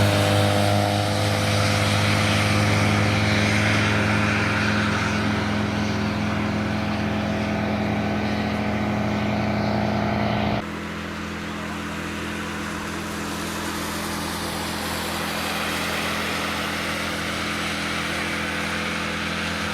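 Car engine running at steady revs over a hiss of noise. About ten seconds in it cuts abruptly to a second, quieter car engine, also steady.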